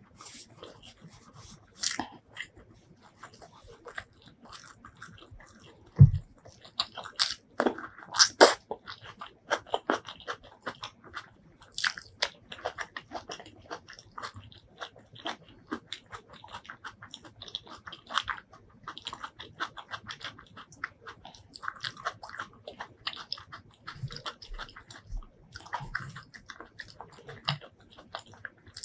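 Close-miked chewing of chicken biryani, with many small mouth clicks and crackles, and a single dull thump about six seconds in.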